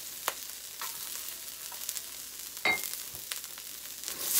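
Diced onion sizzling in hot oil in a steel wok: a steady hiss with a few sharp pops and clicks, one a short ringing clink about two and a half seconds in. Near the end a spatula starts stirring the onion and the sizzle grows louder.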